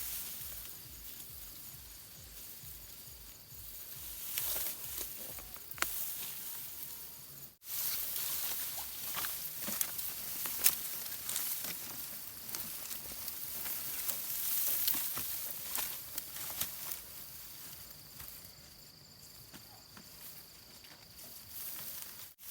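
Rustling and crackling with many scattered sharp clicks, typical of dry rice stalks being cut and handled. A faint steady high tone runs through the last few seconds.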